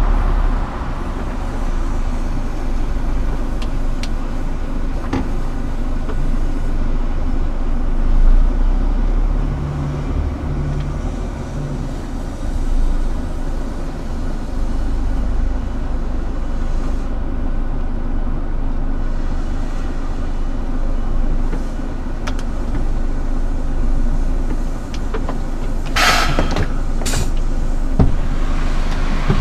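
Scania R410 truck's diesel engine running steadily. Near the end come two short hisses, typical of the truck's air system.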